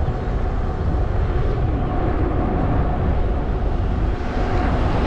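Steady wind rumble buffeting the microphone of an e-bike riding into a headwind, with a faint steady whine running through it.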